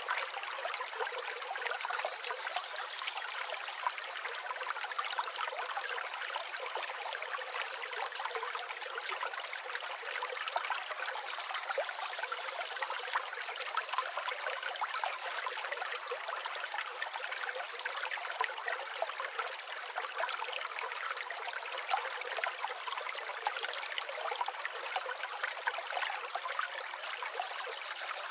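River water flowing and babbling steadily over stones, with a faint high bird chirp a couple of times.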